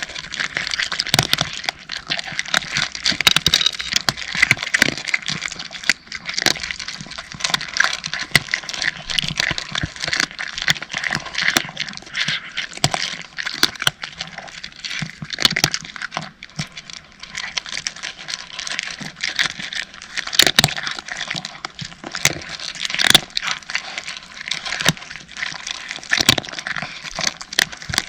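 Several cats eating dry kibble: a dense, irregular run of crisp crunches and clicks as they chew.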